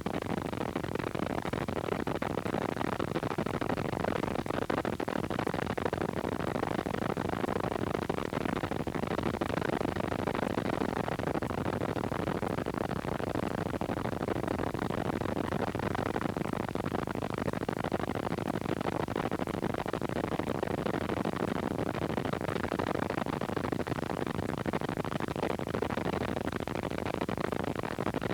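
Steady helicopter cabin noise, an even rushing hiss without change.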